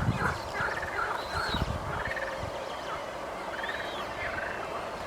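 Birds calling: short, rapid chattering calls repeated every half second or so, most of them in the first half, with a few thin chirps above them.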